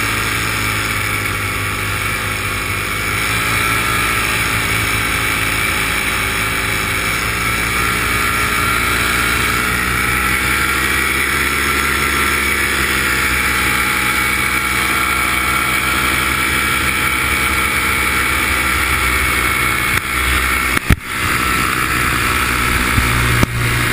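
Multirotor drone's propellers and motors whining steadily, several high tones drifting slightly in pitch as the throttle changes. Two sharp clicks come near the end.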